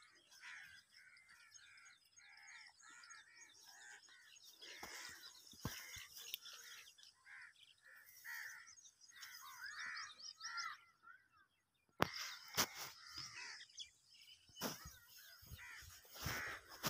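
Many birds chirping and calling, a dense run of short curved notes. A brief dropout comes about eleven seconds in, followed by sharp knocks and rustling.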